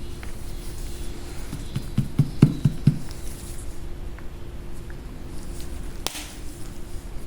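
A quick run of about five dull knocks about two seconds in, then a single sharp click, over a steady low hum.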